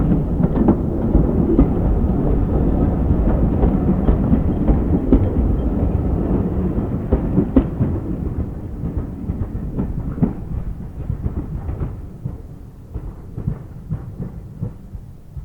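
A steam-hauled train rumbling past and receding, its wheels clicking over the rail joints, the sound fading gradually toward the end.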